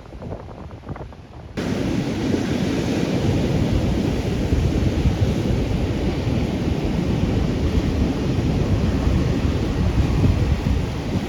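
Heavy ocean surf under strong wind buffeting the microphone, loud and continuous, coming in abruptly about a second and a half in after a quieter stretch of softer surf.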